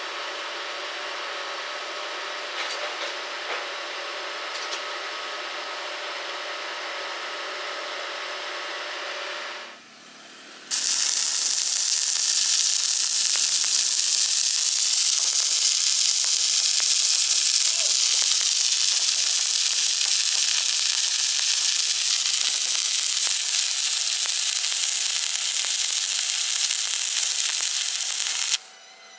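Electric arc welding: a loud, steady sizzling hiss of the welding arc that runs for about eighteen seconds and cuts off suddenly near the end. Before it comes a quieter, steady hiss with faint tones that stops about ten seconds in.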